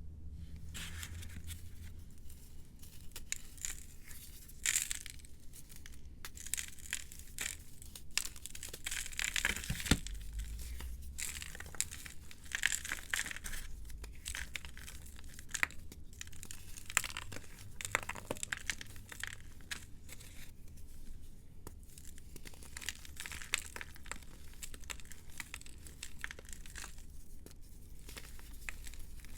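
Blocks of compressed, reformed powder being crumbled and crushed by hand: a dense, irregular run of crackles, crunches and small snaps.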